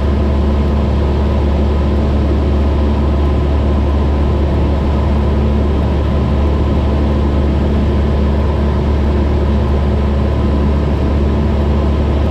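Cessna 172's piston engine and propeller droning steadily in cruise flight, with a constant deep hum and no change in power.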